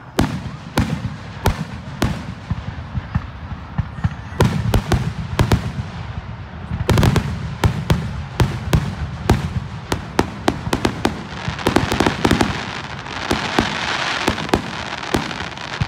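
Fireworks going off: a rapid, irregular string of sharp bangs and pops over a steady low rumble, with a burst of dense crackling about twelve seconds in.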